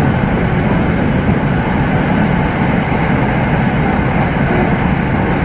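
Electric commuter train of Bangkok's SRT Red Line running at steady speed, heard from on board: a continuous low rumble of wheels and motors with no breaks.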